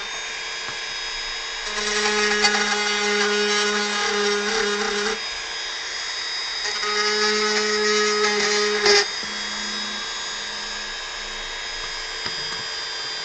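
Dremel rotary tool running at a steady high whine, fitted with a bit meant for sheetrock, carving wood. Its pitch drops and it gets louder in three spells as the bit is pressed into the wood, the first two longer and the last one lighter.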